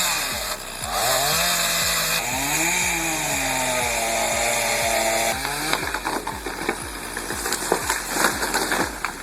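Chainsaw running, its pitch rising and falling as it revs and bogs under load; the engine sound stops about five seconds in and gives way to a run of sharp cracks and knocks.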